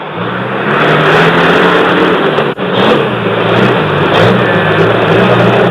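Car engine running loudly under way, with its pitch shifting up and down as it accelerates.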